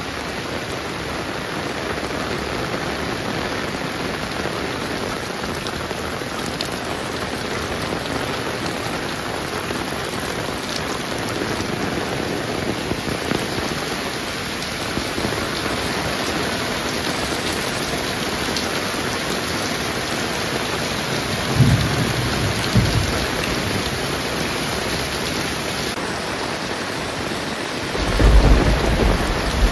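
Heavy rain pouring steadily, with low rumbles of thunder about three-quarters of the way through and a louder rumble near the end.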